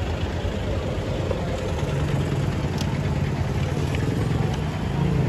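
A motor vehicle engine idling close by, a steady low hum, over the general noise of street traffic.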